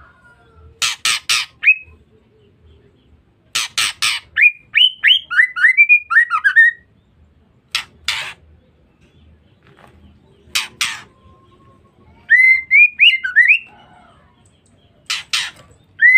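Female white-rumped shama calling: short groups of harsh rasping calls alternating with runs of quick whistled notes that slide up and down.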